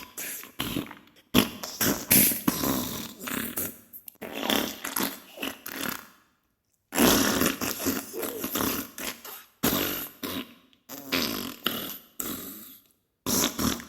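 Diarrhea sound effect: a run of sputtering fart noises in irregular bursts, with a pause of about a second near the middle.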